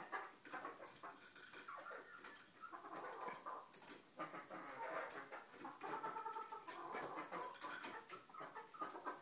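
Chickens clucking softly in short, intermittent low calls, with scattered light clicks.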